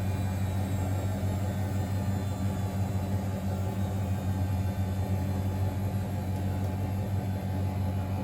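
Miele Novotronic W921 washing machine running with a steady low hum and a mechanical rumble.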